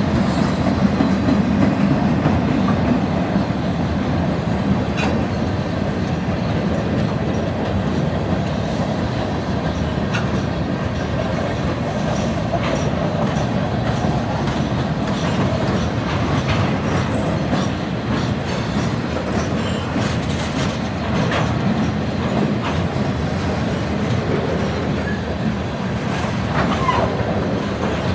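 Freight train rolling past, a steady rumble of cars with the wheels clicking over the rail joints.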